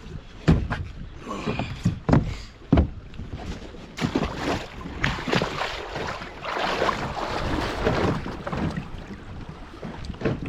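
Water sloshing against a small boat's hull, with wind on the microphone. There are several sharp knocks in the first three seconds, then a longer rushing splash.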